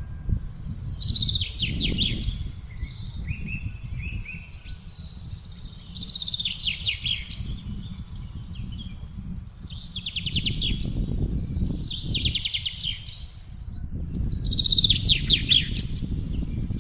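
A songbird singing short quick-note phrases, one every two to three seconds, over gusting wind that rises and falls in a low rumble.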